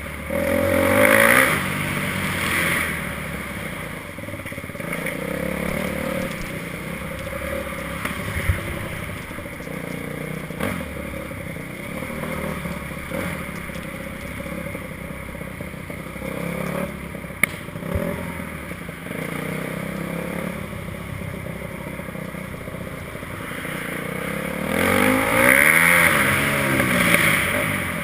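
Motocross bike engine running through a stretch of track, its pitch rising and falling as the throttle is opened and closed, loudest in hard revs about a second in and again near the end. A few sharp knocks cut through it.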